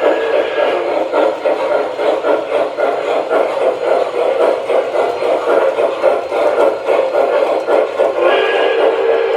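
Sound system of an MTH Proto-2 O scale model steam locomotive: steady chuffing over a running rumble, with a multi-tone steam whistle starting a little after eight seconds in and still blowing at the end.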